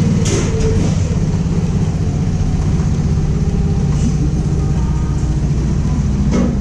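Vespa S125 scooter's single-cylinder engine running steadily.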